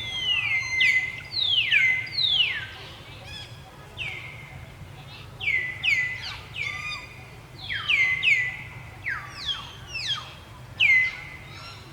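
A rapid string of high-pitched animal calls. Each is a short whistle that drops in pitch and then holds briefly, and some overlap one another.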